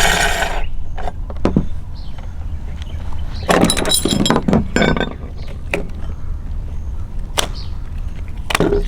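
Meat grinder running and crunching through toy material, with a steady low hum under scattered sharp cracks. A dense run of crackling comes about three and a half to five seconds in.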